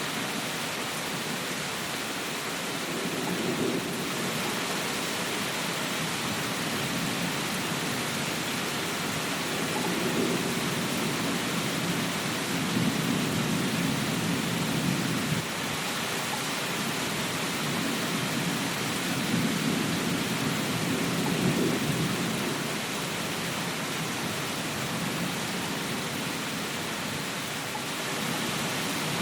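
Steady rain with an even hiss, under a low rumble that swells and fades several times.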